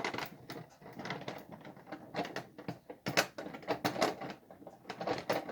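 Irregular light clicks and clatter of a Lionel model train car being handled and worked onto the track.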